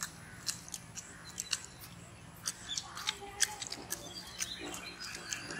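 Small birds chirping and calling: scattered short, high chirps at an irregular pace over quiet background.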